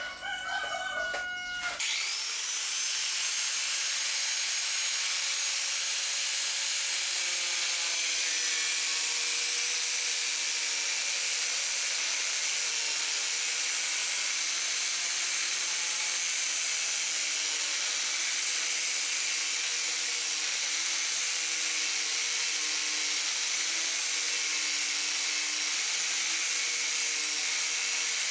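Angle grinder with a thin zip-cut disc spinning up with a rising whine about two seconds in, then running steadily at high speed while it slowly cuts through 4-inch PVC pipe.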